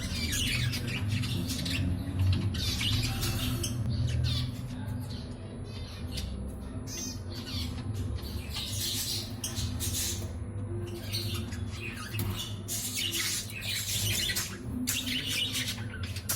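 Budgerigars squawking and chirping in quick, repeated calls over a steady low hum.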